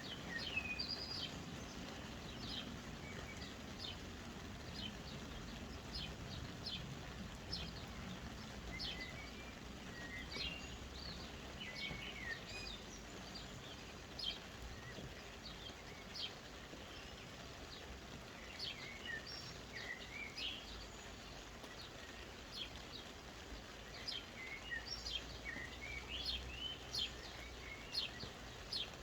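Soft, steady rain with small birds chirping over it, many short calls throughout.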